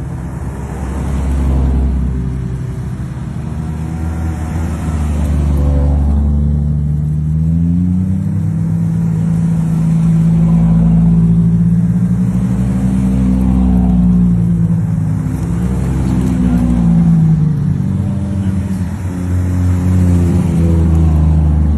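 Supercar engines running, a deep continuous note whose pitch climbs and falls several times as they rev and pass.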